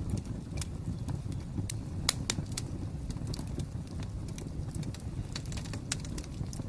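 Wood fire crackling: a steady low rumble with irregular sharp pops and snaps, one louder pop a little over two seconds in.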